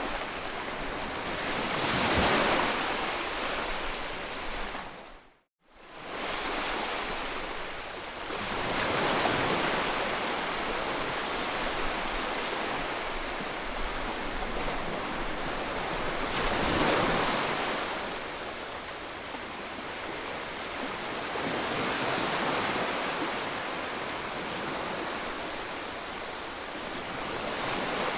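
Sea waves breaking and washing on the shore, a steady rush that swells and eases every several seconds. The sound drops out to silence for a moment about five seconds in.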